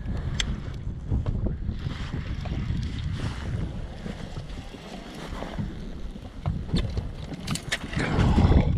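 Wind buffeting the microphone in a low rumble, with scattered light clicks and knocks. It gets louder near the end.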